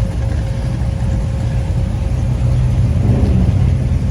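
A car engine running steadily at low speed, a continuous low rumble.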